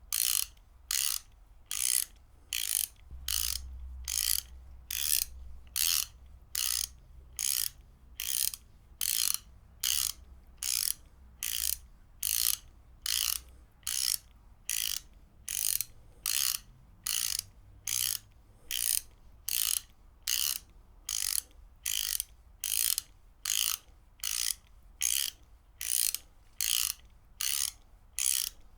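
Ratchet wrench being worked back and forth, its pawl clicking over the teeth in short, evenly repeated bursts of rapid clicks, about one and a half bursts a second.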